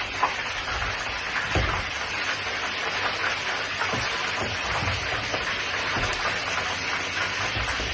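Steady, dense crackling and sizzling of food cooking on the stove, with a few soft low knocks.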